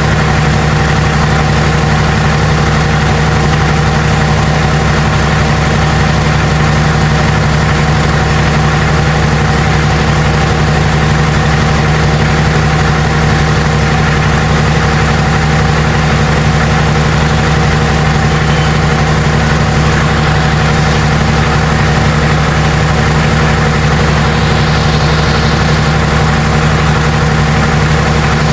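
Tractor's diesel engine idling steadily and loudly, still cold, shortly after a glow-plug cold start.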